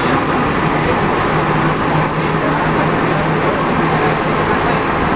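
Rubber-tyred Alstom NS-74 metro train running, a loud steady rumble and hiss, with a steady hum rising out of it for a few seconds in the middle.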